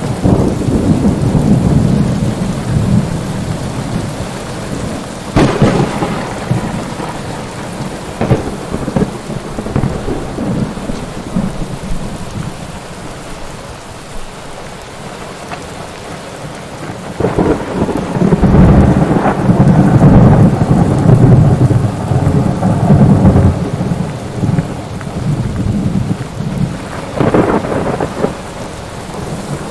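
Thunderstorm: steady rain falling, with sharp cracks of thunder and a long, loud rolling rumble of thunder through the middle.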